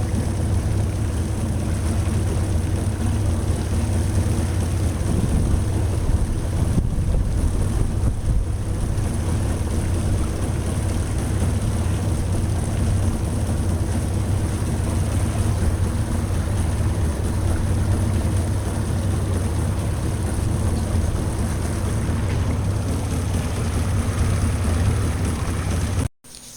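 Small fishing boat's outboard motor running steadily while underway.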